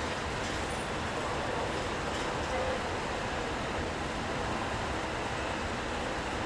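Steady city street ambience: an even wash of traffic noise with a low rumble, no single event standing out, in wet conditions.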